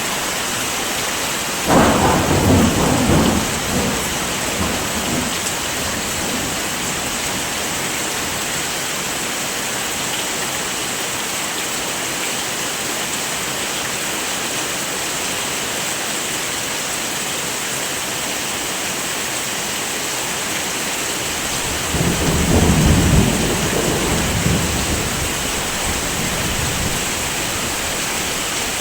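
Steady heavy rain with two rolls of thunder, one about two seconds in and one about twenty-two seconds in, each rumbling for a couple of seconds before fading back under the rain.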